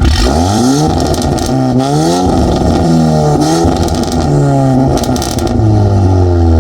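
Volkswagen Golf 8R's stage-2-tuned 2.0-litre turbocharged EA888 four-cylinder, with downpipe and stainless steel exhaust, revved in Sport mode: several throttle blips whose pitch rises and falls, with crackles on some of them, settling to a steady note near the end.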